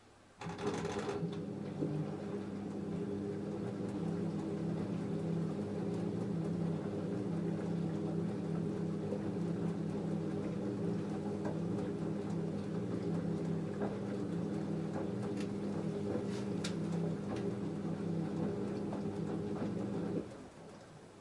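LG F10A8HDS5 front-loading washing machine running with a steady motor hum. The hum starts with a brief noisy burst, has a few faint ticks in the middle, and stops shortly before the end.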